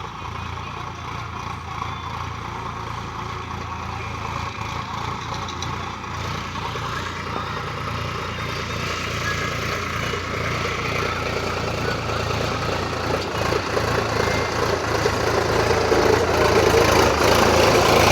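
Sonalika tractor's diesel engine running steadily, growing gradually louder.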